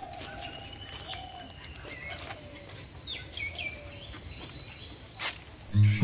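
Birds calling in the background: short whistled, rising and falling notes and one long, high, held note, with a single sharp click about five seconds in. Strummed acoustic guitar music comes in loudly near the end.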